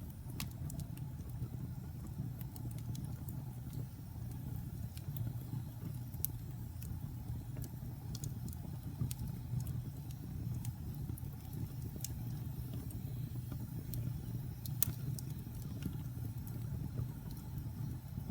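Wood fire burning in a fireplace: a steady low rumble of the flames with scattered sharp crackles and pops, one louder pop late on.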